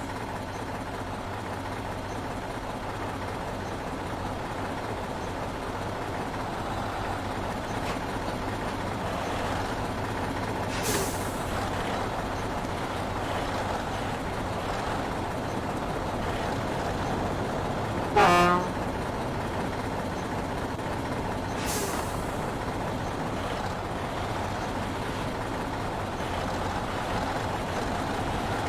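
Heavy truck engine running steadily with road noise. A short horn toot sounds about 18 seconds in, the loudest moment, and brief air-brake hisses come about 11 and 22 seconds in.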